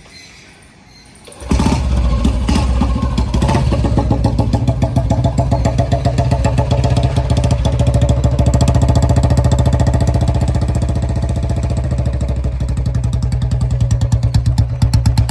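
Old-model Royal Enfield Electra 350's single-cylinder engine running with a steady thumping exhaust beat. It comes in suddenly about a second and a half in, and the beats turn more distinct near the end.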